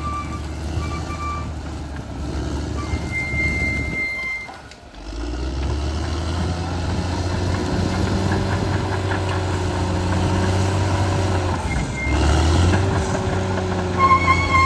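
Caterpillar D6R XL bulldozer's diesel engine running, its note rising and falling, with the dozer's reversing alarm sounding a steady tone in several stretches. The engine sound drops away briefly a little before the middle.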